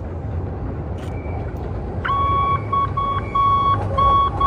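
CTA rapid-transit train approaching over elevated track with a low rumble; about two seconds in, a steady high-pitched tone starts from the train, broken by several very short gaps.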